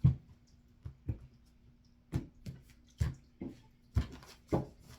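Tarot cards being shuffled and handled: about nine sharp, irregular slaps and taps, a second or less apart, over a faint steady hum.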